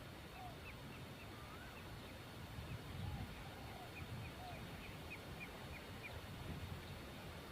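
Wild birds calling faintly: a run of short, high chirps and a few lower curving whistled calls, over a low rumble.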